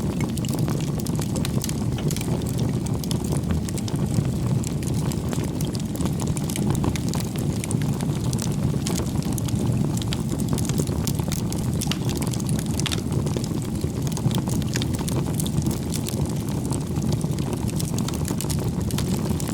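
Wood bonfire burning: a steady low rush of flame with frequent small crackles and pops from the burning firewood.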